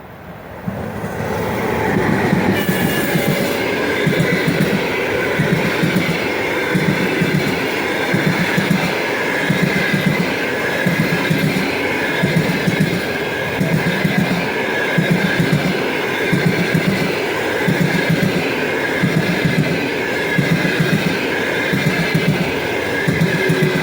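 A fast passenger train hauled by an EP1 electric locomotive running past. The sound swells over the first two seconds as the train arrives. Then the wheels clatter in a steady rhythm, a little more than one beat a second, under a high whine that slowly falls in pitch.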